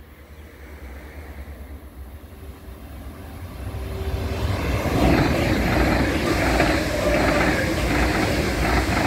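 An ICE-T electric tilting train, running as two coupled sets, approaches and passes. Its sound grows over about five seconds into a loud, steady rush and rumble of wheels on rail and air.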